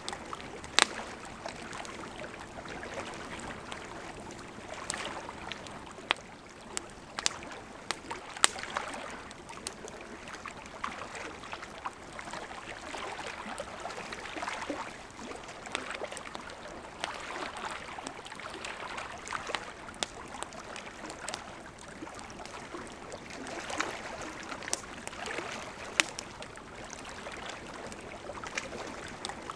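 Wood fire burning steadily, with a constant soft hiss and crackle and scattered sharp pops and snaps, the loudest about a second in, around eight seconds in and near the end.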